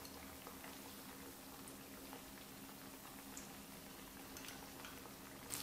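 Breaded pork cutlets deep-frying in hot oil over medium heat: a faint steady sizzle with scattered tiny crackles, over a faint low hum. The sizzle grows louder near the end.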